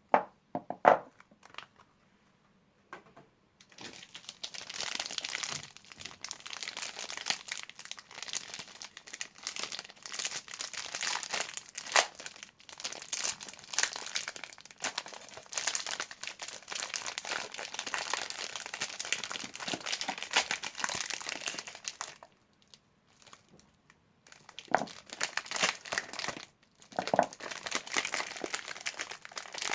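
Soap bar wrappers being unwrapped by hand, crinkling in long dense runs, with a quiet spell of a few seconds near the start and another about two-thirds through. A few sharper taps come at the start and near the end.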